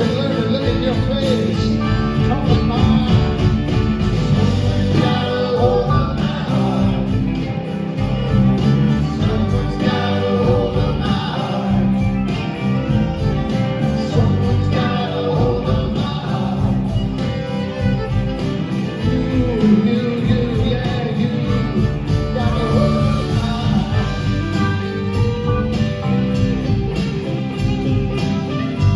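Live band playing a stretch without sung words: guitars, bass and drums keep a steady groove while a wavering lead melody plays over them.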